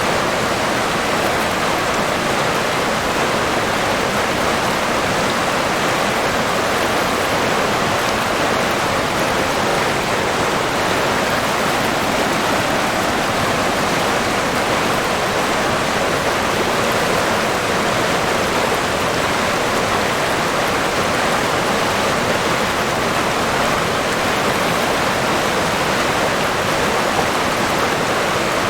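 River water rushing and burbling in a steady, unbroken wash.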